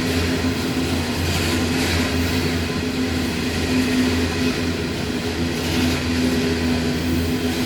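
Loaded coal train rolling past: a steady rumble from the train with a constant low hum.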